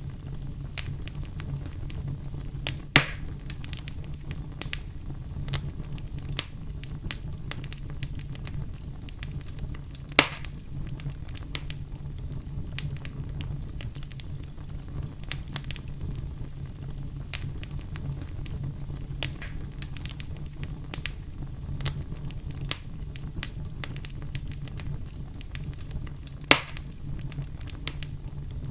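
Wood fire burning in a fireplace: a steady low rumble with frequent small crackles and three loud pops, about 3, 10 and 26 seconds in.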